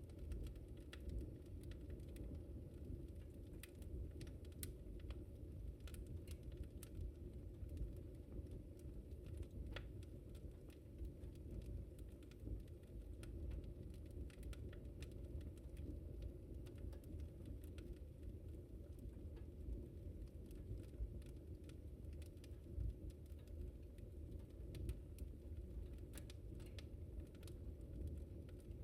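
Wood fire in a fireplace crackling, with irregular sharp pops and snaps over a steady low noise of the burning.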